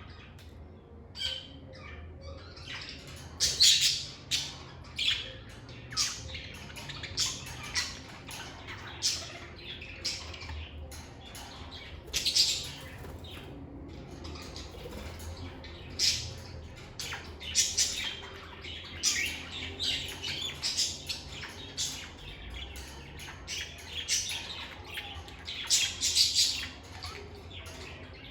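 Lovebirds chirping and squawking: a stream of short, sharp, high-pitched calls, several a second at the busiest moments, over a faint low hum.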